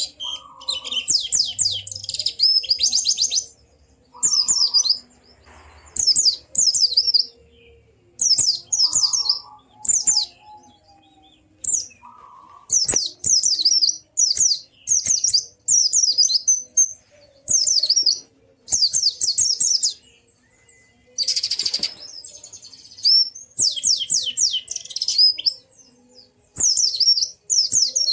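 White-eye (pleci) singing: rapid phrases of quick, falling high notes, each a second or so long, with short pauses between, and a brief noisy burst about two-thirds through.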